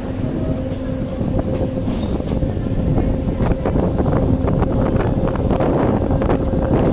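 Train running at speed, heard from aboard: a steady low rumble with a faint hum, and a dense rattle of clicks and knocks that grows louder from about three seconds in, with wind buffeting the microphone.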